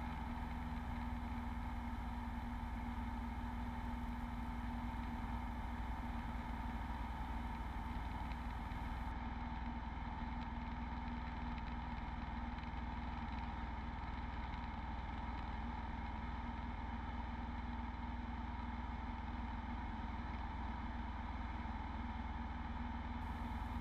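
Beechcraft Bonanza V35's piston engine idling, an even, unbroken hum with a few steady tones in it.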